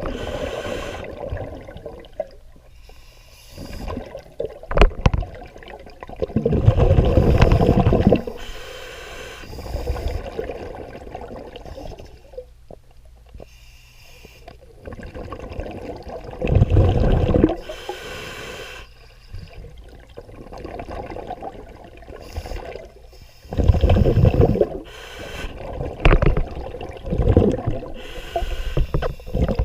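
Scuba diver breathing underwater through a regulator: loud bubbling exhalations lasting a second or two, four times, with quieter hissing inhalations between them.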